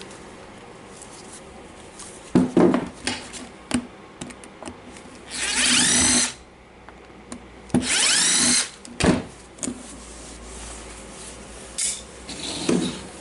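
Electric screwdriver run twice, about a second each, its whine rising as the motor spins up, backing out the grinder's housing screws. Clicks and knocks of parts being handled fall between the runs.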